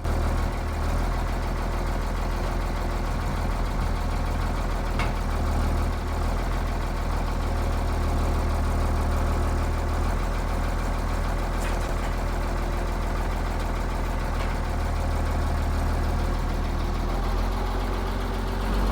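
Diesel engine of a Ford TW-10 tractor running steadily at a low, even speed while it works a front loader.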